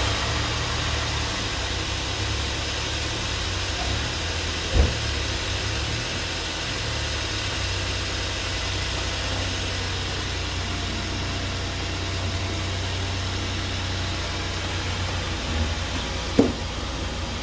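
Kia Sportage 2.4L four-cylinder engine idling steadily after starting. Two brief sharp knocks, about five seconds in and near the end.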